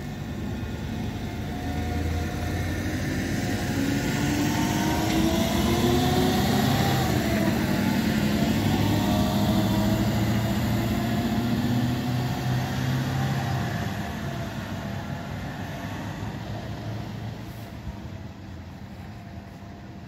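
Passenger multiple-unit train pulling out and accelerating away, its drive note rising in pitch over a steady rumble. It is loudest about halfway through, then fades as the train recedes.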